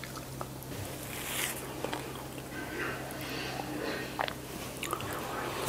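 A person chewing a mouthful of food, with soft breaths through the nose and a few faint clicks.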